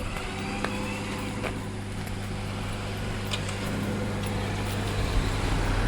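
Vehicle engine idling steadily, with a few light clicks.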